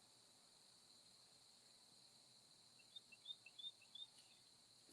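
Near silence with a steady faint hiss, then a quick run of about eight faint, short high chirps a little under three seconds in.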